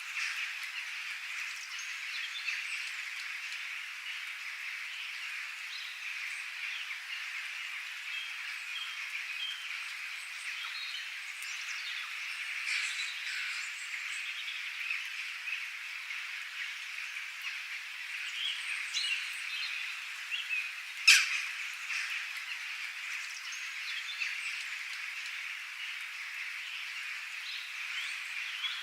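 Outdoor chorus of birds and other small calling animals: a dense, steady high-pitched wash of many overlapping calls, with scattered short chirps above it. One sharp click about two-thirds of the way through is the loudest moment.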